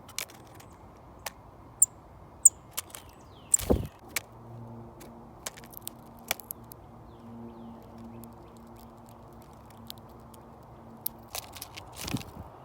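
Birds at a seed feeder: irregular taps, clicks and knocks of landing and pecking, with two thumps, one about four seconds in and one near the end, and two brief high chirps around two seconds in. A low steady hum runs for about seven seconds in the middle.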